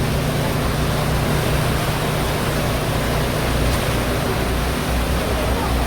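Steady drone of a passenger ferry's engines under way, with a constant low hum and an even rush of wind and water noise.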